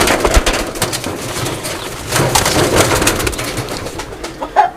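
Domestic pigeons cooing, with many short clicks and rustles of birds moving about the cage.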